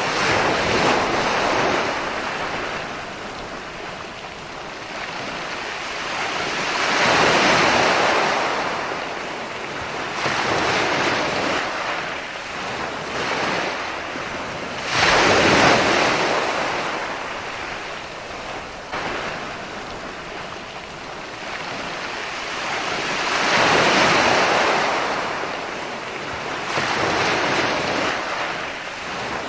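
Ocean surf: waves breaking and washing in, a rush of noise that swells and ebbs every several seconds. One sharper, sudden crash comes about halfway through.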